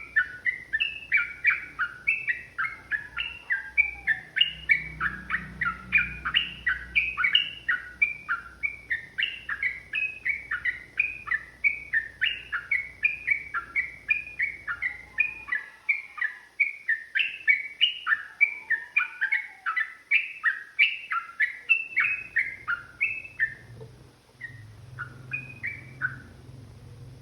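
Yellow-vented bulbul (trucukan) singing a long, fast run of bubbly chattering notes at about four a second. The run breaks off near the end into a few last notes.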